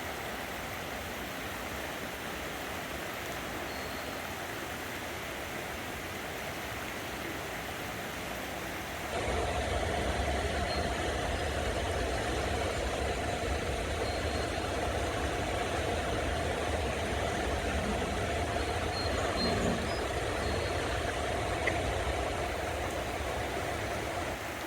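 Steady rushing of river water. About nine seconds in it changes abruptly to a louder, deeper rush with a low rumble.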